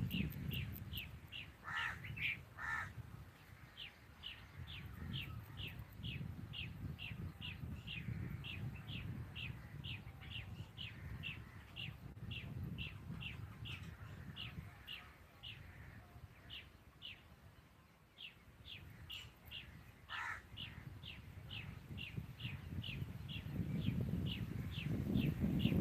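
Birdsong in open farmland: a bird's short high chirps repeated evenly, about three a second, broken by a pause in the middle, with a few harsher crow-like calls. Wind rumbles on the microphone, growing louder near the end.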